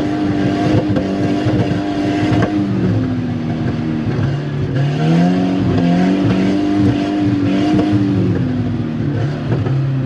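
Volvo 740 Turbo's turbocharged four-cylinder engine under hard throttle, held at steady high revs, dropping off and climbing again twice as the car is driven through the mud.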